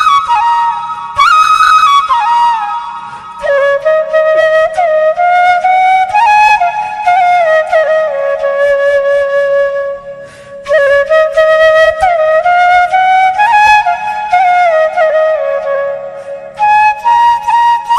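Flute music: a single melody played in long phrases over a low steady drone, with brief pauses between phrases.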